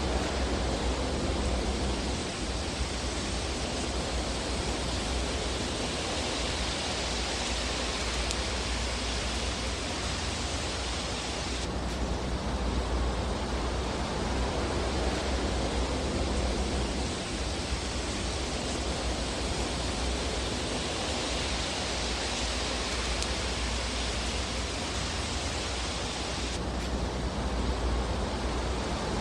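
Fireplace fire ambience: an even, steady rushing hiss over a low rumble, with no distinct crackles standing out. The high part of the hiss shifts abruptly twice.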